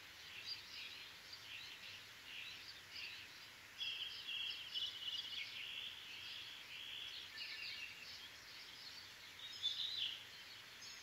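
Small birds chirping and twittering as faint outdoor background, with a faster run of chirps about four seconds in and a few louder chirps near the end.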